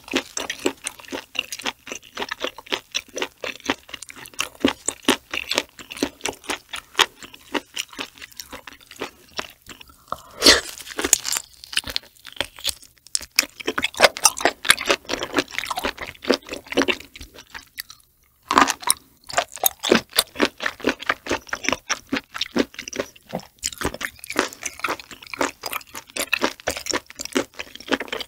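Close-miked chewing of boiled octopus tentacle: a dense run of wet clicks and smacks, with a brief silent break about two-thirds of the way through.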